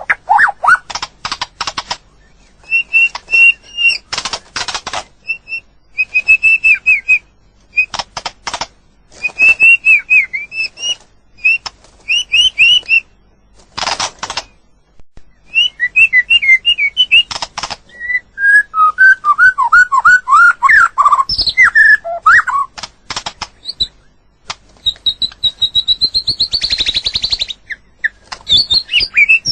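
White-rumped shama singing: a varied run of short whistled phrases, sliding notes and quick trills, broken up by harsh clicks and rattles, coming in bursts with short pauses between.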